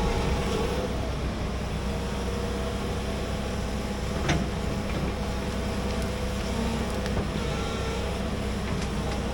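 Large excavator's diesel engine running steadily under work, with a single sharp knock about four seconds in.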